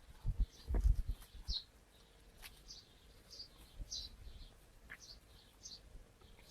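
A small bird chirping repeatedly in the background, short high chirps about every half second to second. Low thumps sound on the microphone in the first second and a half.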